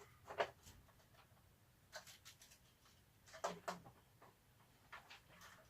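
A loose object rattling inside a Goped scooter's fuel tank as the tank is shaken: a few faint, scattered clicks and taps a second or so apart.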